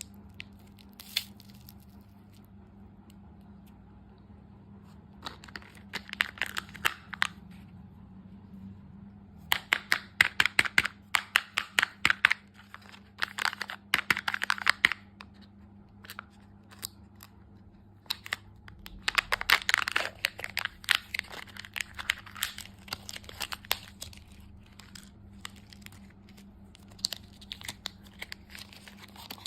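Close-up crinkling and crunching of candy in several bursts of a few seconds each, over a faint steady hum.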